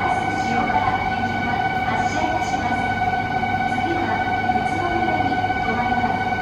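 Running noise of an E2 series Shinkansen on the move, heard from the deck between cars: a steady high whine over a constant rumble.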